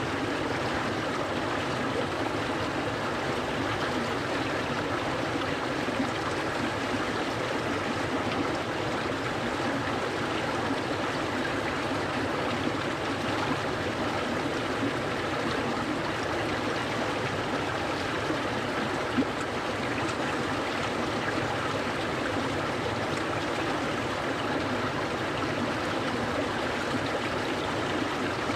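Stream water flowing and babbling steadily, an even rushing sound with no pauses.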